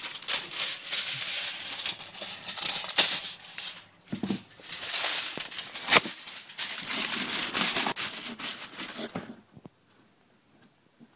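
Aluminum foil being crinkled and pressed by hand, a dense crackling rustle with sharp clicks, with a short pause about 4 s in. It stops abruptly a little past 9 s.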